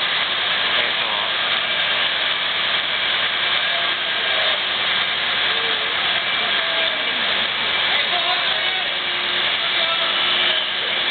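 A loud, steady din of street noise at a fire scene, with indistinct voices mixed in.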